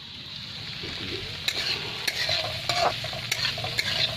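Onion tadka frying in hot oil in a pan, sizzling, while it is stirred; the utensil clicks against the pan every half second or so. The sizzle grows louder about a second in.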